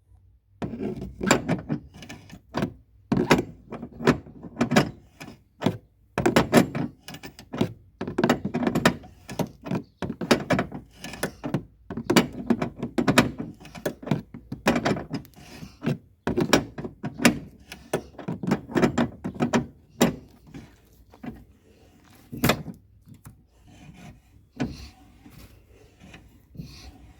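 Repeated irregular knocking thuds from under the rear of a 2010 Perodua Alza as it goes over a bumpy road, many knocks a second at first and fewer, with a couple of sharp single knocks, near the end, over a faint low road rumble.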